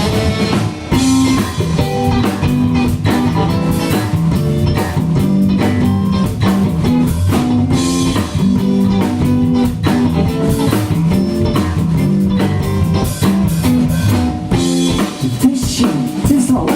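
Live band playing an instrumental passage without vocals: guitar over bass and drum kit.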